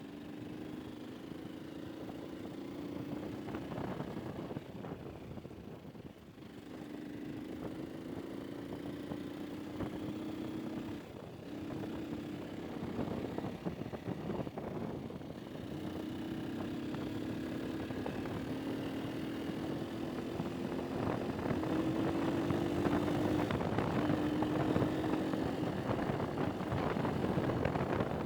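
Vehicle engine accelerating on a ride, its pitch climbing slowly and dropping back several times as it shifts up through the gears, with road and wind noise growing louder.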